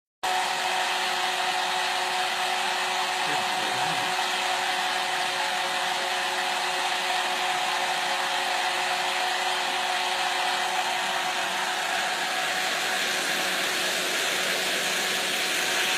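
Hair dryer running steadily, blowing a constant rush of air with a steady motor whine.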